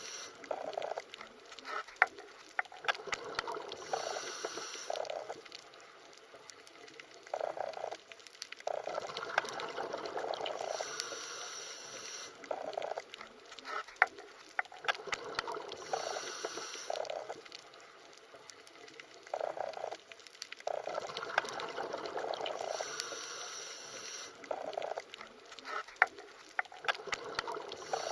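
Underwater ambience: water bubbling and gurgling, heard as if beneath the surface, swelling and fading in a slow repeating cycle, with scattered sharp clicks.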